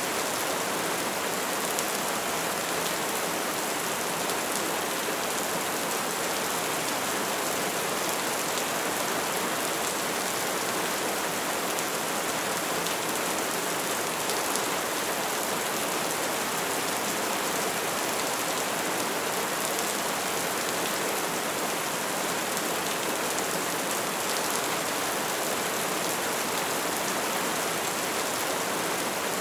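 Steady rain falling, an even hiss with faint scattered drop ticks on a surface.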